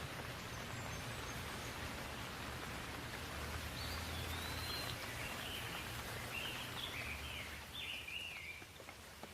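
Steady rain falling, an even hiss, with a bird calling in a run of quick, wavering chirps through the middle. The rain eases a little near the end.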